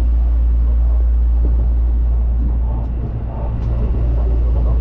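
Steady low rumble of a train in motion, with faint voices in the background.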